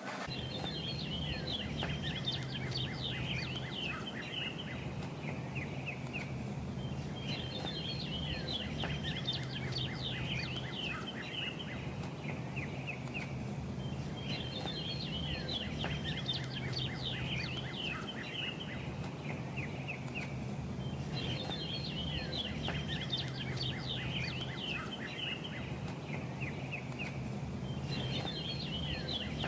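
A songbird singing a chattering, trilling song of about three seconds, repeated about every seven seconds, over a steady low hum.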